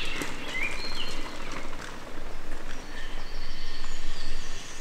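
Woodland birds singing: short clear whistled notes, some stepping up or down in pitch, with a cluster near the start and more later on, over a steady outdoor hiss.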